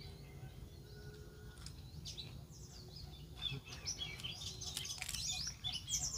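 Small birds chirping and twittering, the calls coming thicker from about three and a half seconds in, over a steady low outdoor rumble.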